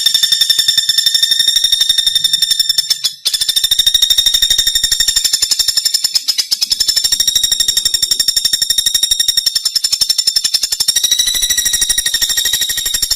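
Pelatuk bawang woodpecker calling in a long, fast rattling trill of high notes repeated many times a second at one steady pitch, broken briefly about three seconds in.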